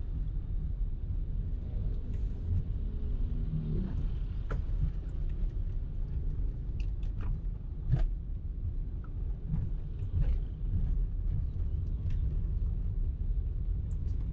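Car driving in traffic, with a steady low road and engine rumble and a few light ticks and knocks.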